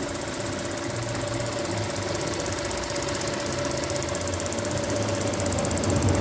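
Seat León 1.6i's EVAP canister purge valve tapping in a fast, even ticking over the idling engine as it pulses fuel-tank vapours into the intake. The tapping is annoying, but the owner does not take it for a fault: a replacement valve made the same noise and the engine runs correctly.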